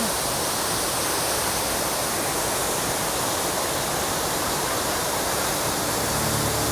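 Steady, loud rush of a tall waterfall, the Velo de Novia falls at El Chiflón, pouring about 230 feet into its pool.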